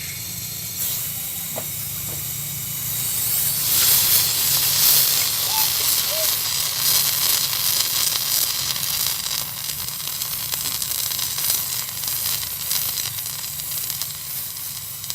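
Gas torch flame hissing steadily, louder from about four seconds in, as it heats the gouged aluminium evaporator for welding. A steady low hum runs underneath.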